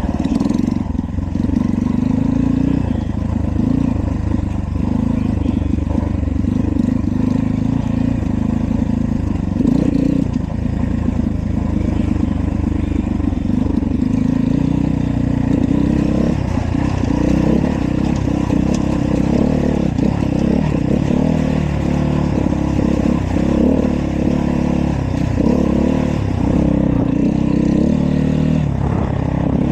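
Dirt bike engine running and revving as the bike is ridden, loud and continuous.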